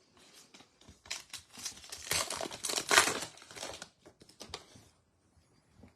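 Trading-card pack wrapper crinkling as it is torn open, with a dense crackle that is loudest about three seconds in, then a few light rustles as it is put aside.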